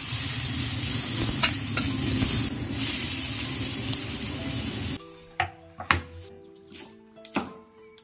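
Chopped green chillies and scallions sizzling in hot oil in an iron wok, with a couple of clicks from the spatula. About five seconds in the sizzling cuts off suddenly and gives way to background music with a few sharp knocks.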